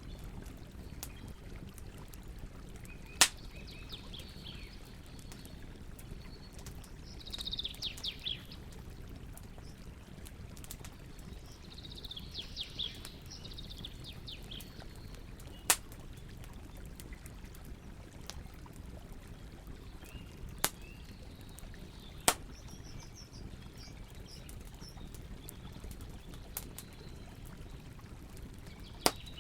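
Campfire burning with a steady low rumble and a sharp crackling pop every few seconds, while birds chirp in short bursts of high calls several times.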